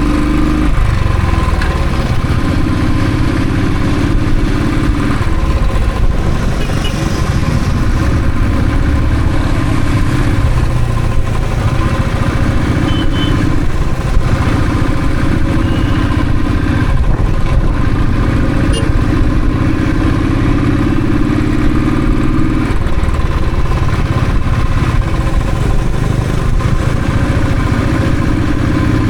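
Royal Enfield Thunderbird motorcycle's single-cylinder engine running under way. Its note rises slowly over stretches of a few seconds, with short breaks between them as the throttle comes off and on again.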